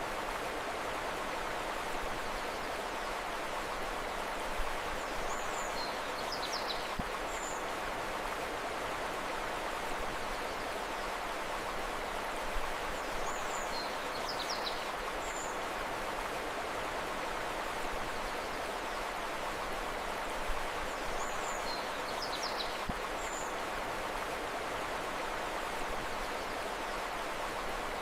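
River water flowing steadily, with short high bird chirps in small clusters recurring every several seconds.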